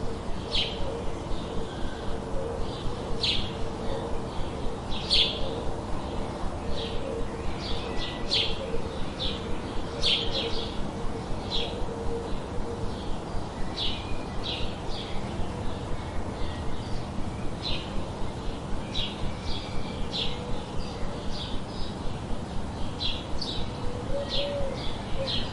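Small birds chirping: a steady run of short, high chirps, one or two a second, over a constant low background hiss.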